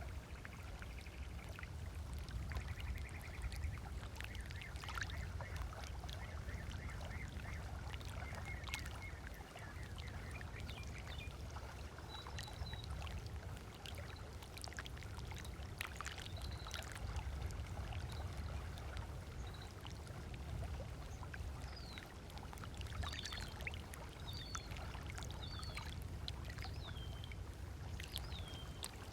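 Small waves lapping and splashing at a sandy lakeshore over a low steady rumble, with several birds calling: a short trill near the start, then scattered chirps and whistles that grow more frequent in the second half.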